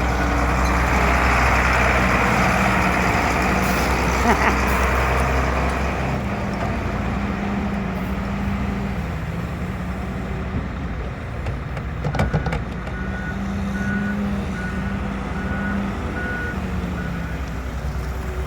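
Heavy diesel engines of a front loader and dump trucks running, loudest in the first few seconds, with a brief clatter about two-thirds of the way through. Soon after, a reversing alarm beeps in an even series of about seven beeps.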